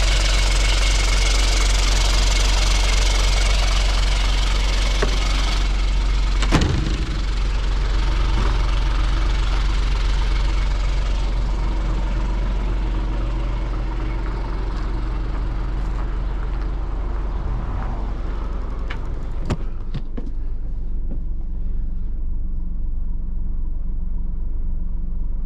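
Mitsubishi Fuso 7.5 litre diesel engine idling steadily and smoothly. A single sharp knock comes about six seconds in, after which the engine's hiss is quieter and more muffled, with a few light clicks later on.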